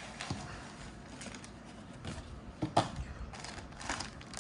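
Small clicks and light rustling of an intercom kit's box and packaging being handled, with one sharper knock about three seconds in.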